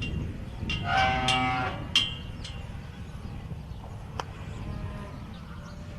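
A cow mooing once, a held call of about a second starting just under a second in, over a steady low rumble, with a sharp click just after the call.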